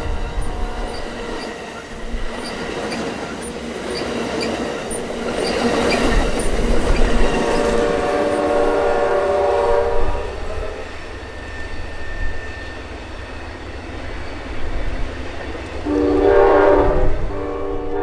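Amtrak passenger train (Train 5, the California Zephyr) passing through a crossover, its locomotive horn sounding: one blast fading at the start, a long blast about eight seconds in, and another louder one near the end. Between blasts comes the steady rumble and clatter of the wheels.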